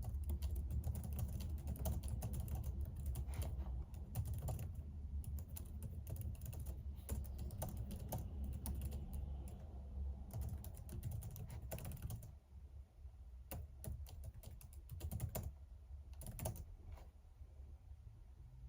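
Typing on a computer keyboard: a dense run of key clicks that thins to scattered keystrokes about twelve seconds in.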